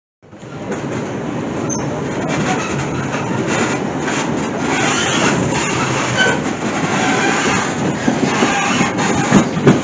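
Passenger train rolling along the track, heard from aboard: a steady rumble and rattle of wheels on rail. It fades in just after the start and grows gradually louder.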